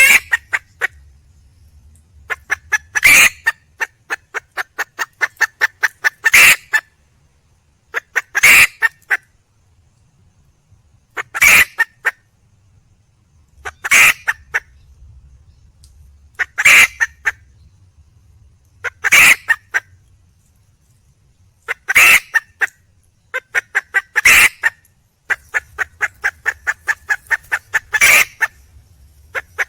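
Junglefowl hen calling over and over to attract a male: runs of quick clucks that lead into a loud call, repeated about every two and a half seconds.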